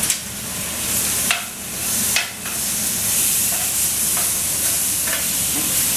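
Chicken souvlaki skewers sizzling on a hot stovetop grill pan, a steady hiss, with three sharp clacks in the first couple of seconds as the skewers are turned over.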